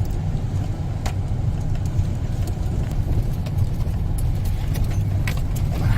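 Steady low rumble of a car driving, heard from inside the cabin on snowy, bumpy roads, with a few light clicks and rattles.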